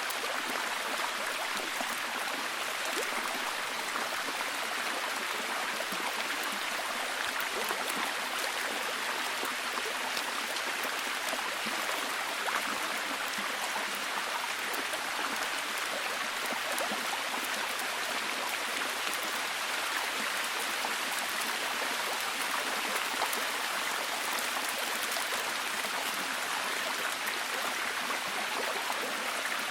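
Steady heavy rain, a dense, even patter of drops that does not change.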